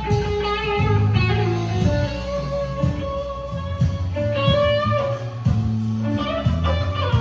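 Blues music played on electric guitar, with bass and a steady beat underneath, the guitar holding and bending long notes.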